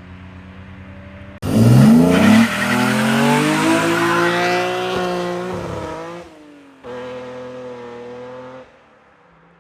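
BMW M54B25 straight-six fitted with an N54 intake manifold, suddenly revving hard about a second in with a rising note and tyre squeal, then easing off and cutting out. Shortly after, the engine briefly holds a steady note.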